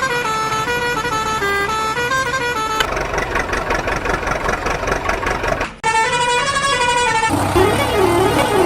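Electronic tones and sound effects cut together in short pieces: a stepping, tune-like sequence of tones, then a noisier stretch, then a tone that wavers up and down like a siren near the end.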